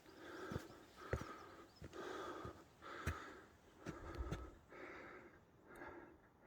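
Heavy rhythmic breathing, about one breath a second, with footsteps on a mountain trail.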